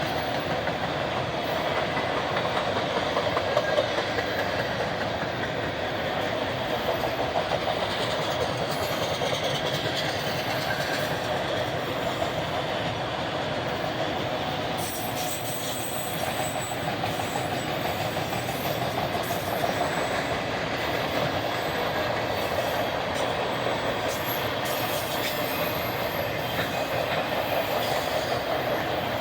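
Freight cars of a passing train rolling by on the rails, a steady, unbroken running noise from the wheels and cars.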